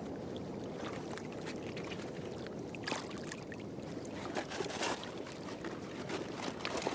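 Water sloshing and lapping, with scattered small splashes.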